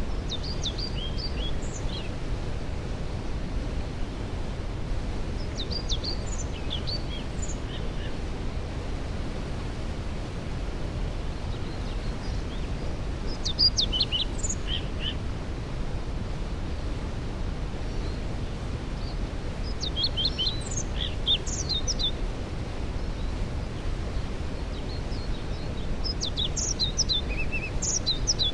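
Steady rush of a waterfall, with a songbird singing short phrases of high chirps and trills about five times, roughly every six seconds.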